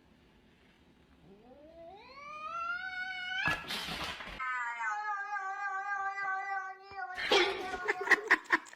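A cat yowling: a long call rising in pitch, cut by a short rushing noise about three and a half seconds in, then a second long, steady yowl. A burst of scuffling, clicking noise follows near the end.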